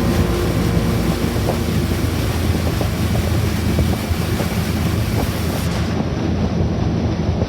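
Motorboat underway: a steady low engine drone and water rushing past the hull, with wind buffeting the microphone.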